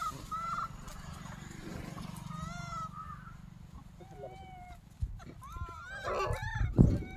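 Monkeys giving short, high, arched squealing calls, several in a row, over a low rumble, with a cluster of knocks and a louder burst of calls near the end.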